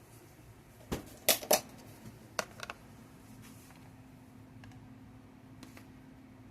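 A handful of sharp clicks and knocks from kitchen utensils being handled, about five in the first three seconds, the middle two the loudest. A faint steady hum starts about two seconds in.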